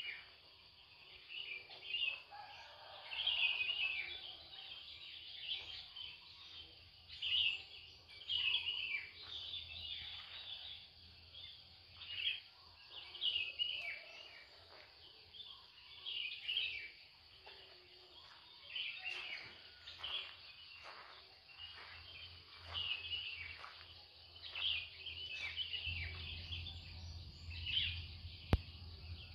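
Several small birds chirping and calling, short high calls and quick falling notes following one another every second or so, over a low steady hum that grows louder near the end. A single sharp click sounds just before the end.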